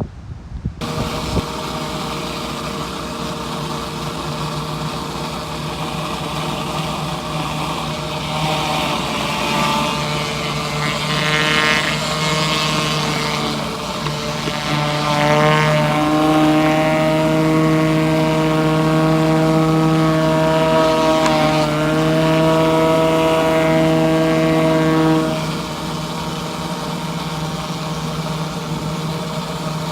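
Pressure washer running steadily. From about a quarter of the way in until near the end, a louder whining tone sits on top of it, dips briefly, then falls away.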